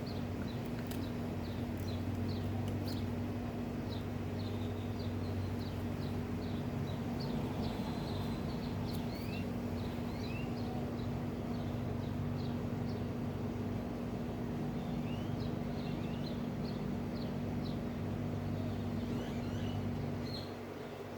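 Birds chirping in many short, quick calls, over a steady low mechanical hum that eases slightly near the end.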